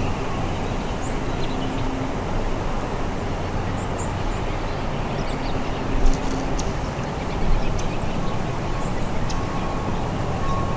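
Steady wind noise rushing through the woods and on the microphone, with a few faint high bird chirps and two brief bumps, about six and seven and a half seconds in.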